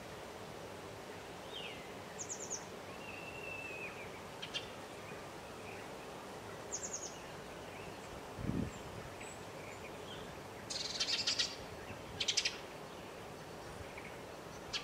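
Small songbirds calling: scattered short high chirps and a thin whistled note, then two quick rapid trills late on, over a steady background noise. A single dull low thump sounds a little past the middle.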